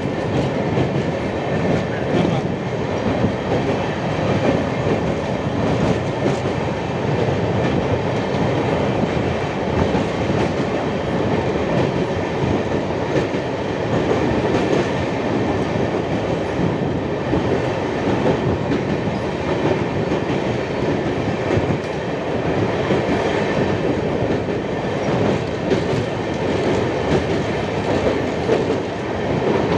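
Train running steadily across a railway bridge: a continuous rumble of wheels on rails with clickety-clack.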